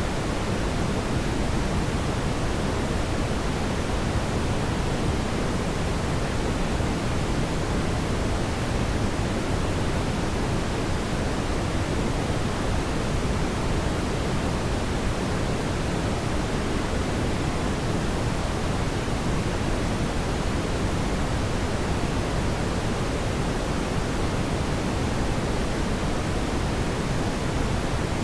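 Steady, even rushing noise, strongest in the low range, from a fireplace ambience recording, with no separate crackles or pops standing out.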